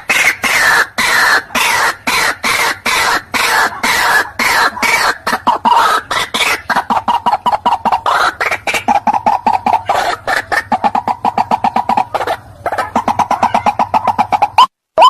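White-breasted waterhen calling: a fast run of short harsh notes, several a second. It breaks off briefly about twelve seconds in, then resumes and turns into sharper rising notes near the end.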